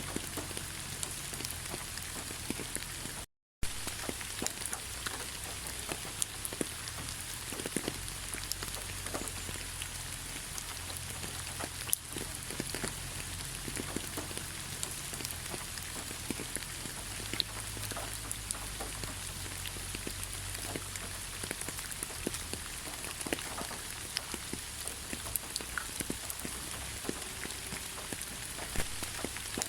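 Steady rain falling in a pine forest, with many individual drops tapping sharply close by. The sound cuts out completely for a split second about three seconds in.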